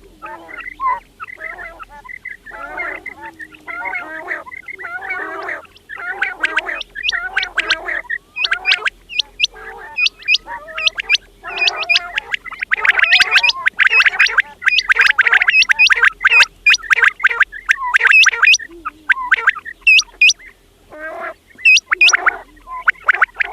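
Several quails calling continuously, many overlapping: short, sharp high-pitched notes over lower chattering calls, densest and loudest in the middle.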